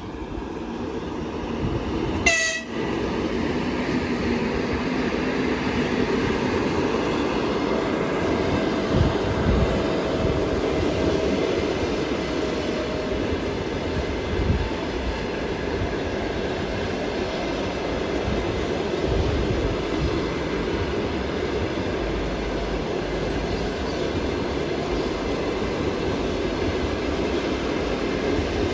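EP2K electric locomotive and its passenger coaches running past: a steady rumble and rattle of wheels on the rails that grows over the first few seconds as the train arrives. A short horn toot sounds about two seconds in.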